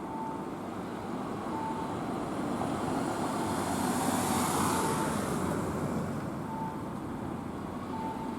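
A train moving at a station platform, its rumble and hiss swelling about midway, while a short electronic beep repeats about every second and a half.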